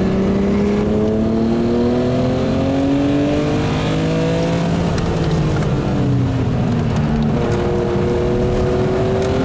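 BMW E36 M3 Evo's S50B32 straight-six race engine, fitted with high-lift cams, pulling hard with its note rising steadily. About five seconds in the pitch falls away as the driver comes off the throttle, and it picks up and climbs again near the end.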